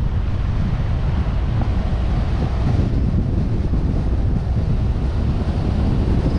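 Steady low rumble of wind buffeting the microphone of an action camera suction-mounted on a moving car, with road and engine noise mixed in.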